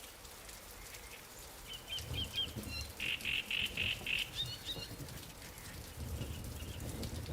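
Light rain falling on water and lily pads, with a run of high chirping calls about two to four seconds in and a low rumble underneath.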